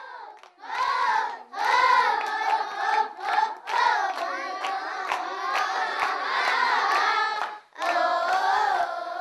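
A group of children singing together and clapping their hands, with a short break near the end before the singing starts again.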